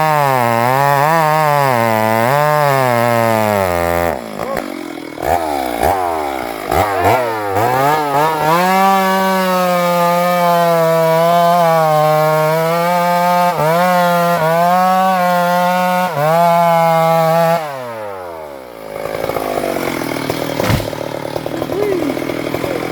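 Two-stroke chainsaw engine revving up and down, then blipping the throttle. It is held at a steady high speed with a couple of brief dips, and its pitch drops away about 18 seconds in, leaving a quieter rough running sound.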